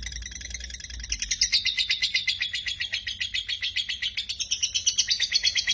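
Lovebird singing a long, unbroken chattering trill: a fast run of shrill chirps, about ten a second, that grows louder about a second in.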